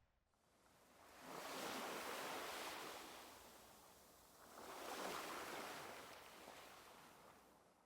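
Soft ocean waves washing in as a sound effect: two gentle swells that build and fade, about three seconds apart.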